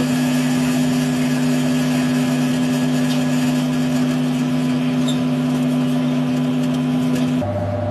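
Microwave oven running with a steady, loud hum while heating sugar; near the end the hum shifts abruptly to a different, lower drone.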